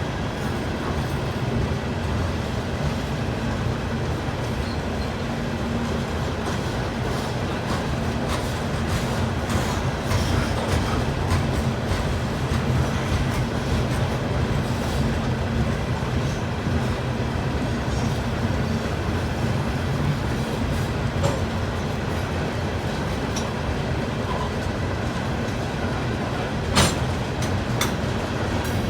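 A freight train rolling past: a steady low rumble with wheels clicking over rail joints, and one sharp clank near the end.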